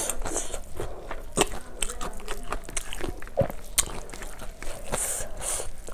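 Close-miked chewing of a mouthful of rice and fish curry, with irregular wet smacks and clicks of the mouth, and fingers squishing through the rice.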